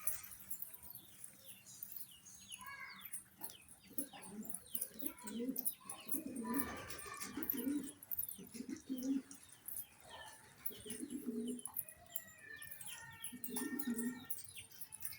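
Domestic pigeons cooing in low repeated phrases while squabs give many short high squeaks, the begging calls of squabs being fed by their parents.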